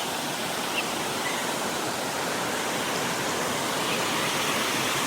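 Steady rush of water falling at a waterfall.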